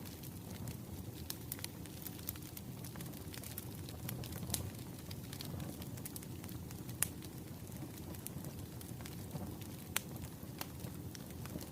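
Wood fire burning steadily, its logs crackling with irregular sharp pops over a low rumble of flame.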